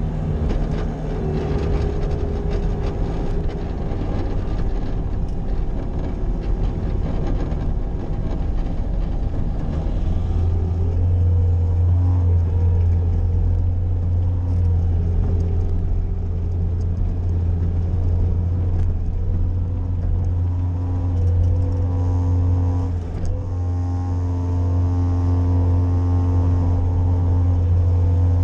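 Bobcat skid-steer loader's engine running while plowing snow. About ten seconds in its drone settles into a strong, steady pitch and holds there, with a brief dip near the end.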